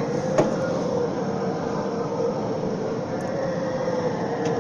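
Steady mechanical drone with a faint constant hum, typical of the river ferry's engine running, with one short click about half a second in.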